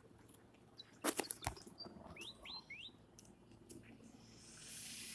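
A few sharp clicks and rustles about a second in, then three quick rising bird chirps about two seconds in, and a soft hiss near the end.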